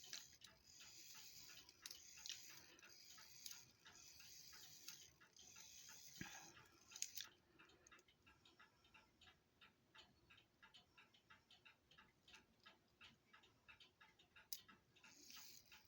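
Cuckoo clock movement ticking steadily with even clicks. In the first half there are several stretches of whirring noise from the works as it runs through the strike, and a sharp click about seven seconds in.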